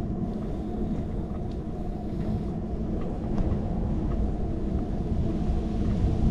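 Steady low rumble of wind buffeting and road vibration picked up by a handlebar-mounted action camera on a moving bicycle, with a few faint ticks and rattles.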